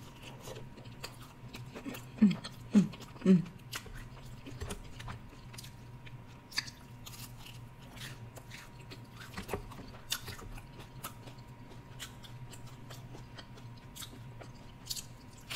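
Close-miked chewing of fried seafood: wet mouth clicks and crunching of fried batter, with three short hums about two to three seconds in.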